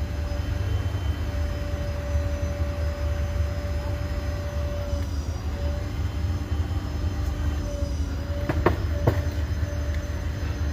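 Heavy vehicle engine running at a steady low rumble, with two sharp knocks about eight and a half and nine seconds in.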